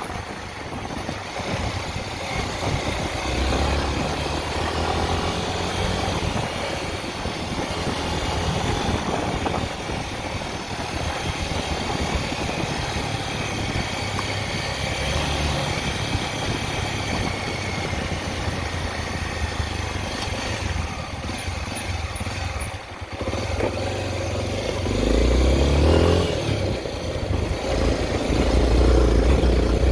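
Honda XR 250 Tornado's single-cylinder four-stroke engine running under way. The engine note drops off briefly about two-thirds of the way through, then climbs and gets louder as the bike accelerates.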